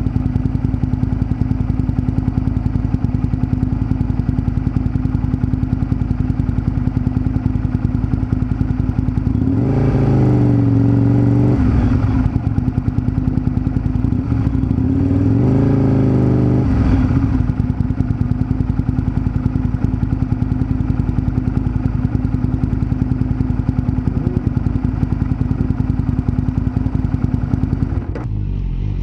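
Aprilia RSV 1000's V-twin engine running at low revs with a fast, even beat, picked up close by a microphone under the seat. Twice, about a third and a half of the way through, the revs rise for a couple of seconds and fall back again.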